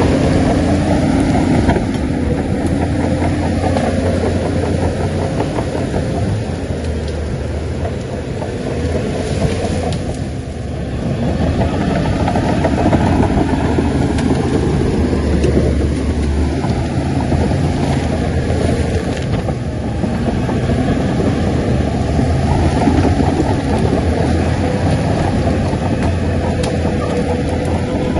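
Shantui bulldozer's diesel engine running steadily under load as it works. The engine note eases off briefly about ten seconds in and again near twenty seconds, then picks back up.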